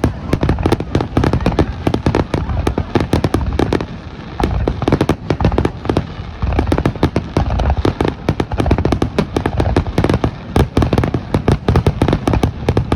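Fireworks exploding in a fast, dense barrage: many sharp bangs and crackles a second, with a brief lull about four seconds in.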